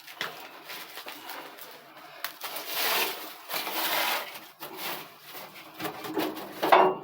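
Dry nest material and trash rustling and crunching as they are handled, with scattered clicks and knocks and a louder burst near the end.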